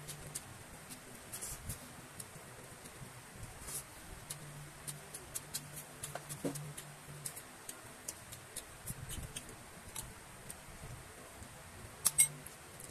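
Close-up mouth sounds of eating: chewing with many small wet clicks and lip smacks while rice is eaten by hand. Near the end, a louder clatter of a metal spoon against a ceramic bowl.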